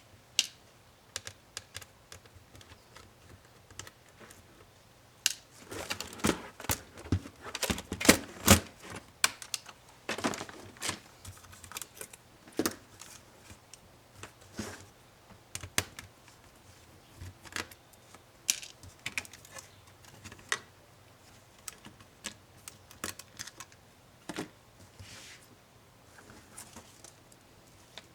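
Irregular clicks, taps and light knocks of a laptop's small plastic and metal parts being handled during disassembly, busiest for several seconds near the middle.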